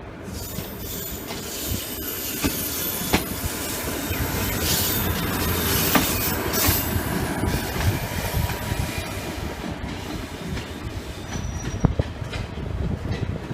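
Indian Railways passenger coach running on the track, its wheels squealing high and thin against the rails over a steady rumble, with scattered clanks and clicks; the squeal is strongest in the first half.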